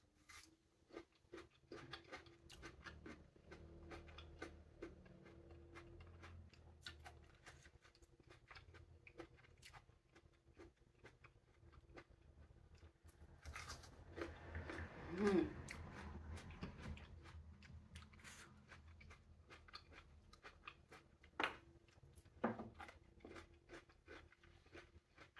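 Faint crunching and chewing of a firm, crisp green plum bitten and eaten by mouth, with many small irregular clicks. There is a louder mouth sound about halfway through and two sharper crunches near the end.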